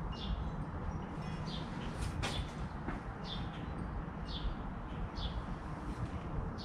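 A bird chirping repeatedly, short falling chirps about once a second, over a low steady rumble.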